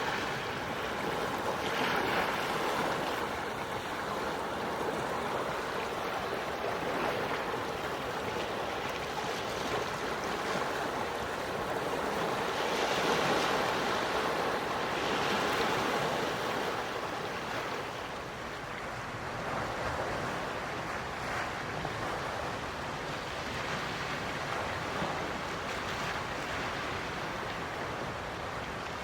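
Small waves washing in on the shore, a steady wash that swells and recedes every few seconds, the strongest swells about 2, 13 and 15 seconds in.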